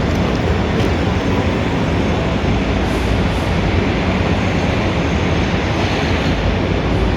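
Steady, dense rumble of city street traffic, heaviest in the low end.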